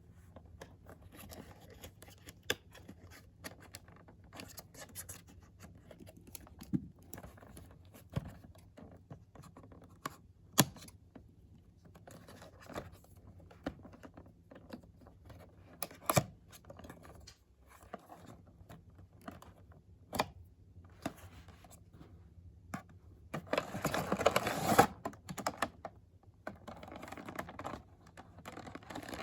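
Hands unpacking a boxed doll: scattered clicks and taps of handling, with a louder stretch of rustling or tearing packaging about three-quarters of the way through.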